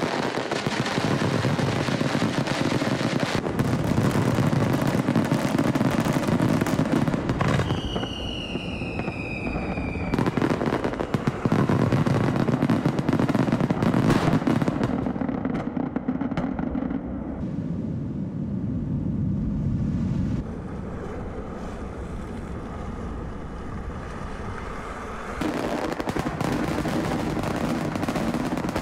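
Japanese aerial firework shells bursting one after another with dense crackling. About eight seconds in, a whistle falls in pitch for some two seconds. After about fifteen seconds the bursts ease off, then grow loud again near the end.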